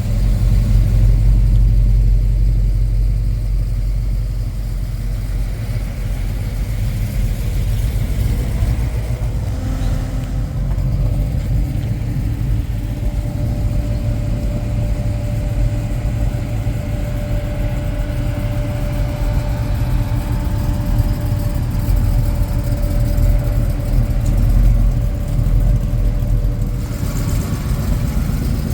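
Ford Falcon hardtop car engines idling with a steady low rumble.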